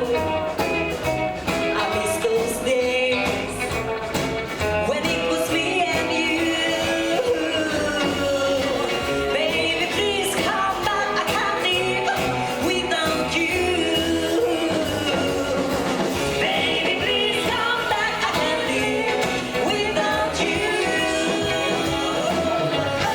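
Live rockabilly band playing a song, with a lead singer over guitar, bass and drums.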